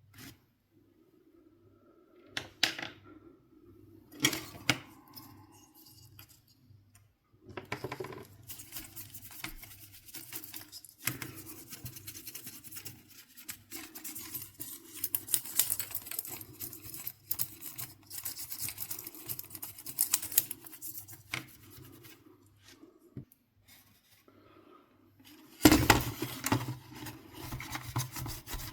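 Hand-tool work on a PS4 console: a few sharp clicks of small parts, then long stretches of scraping and rubbing, with a louder burst of rubbing near the end.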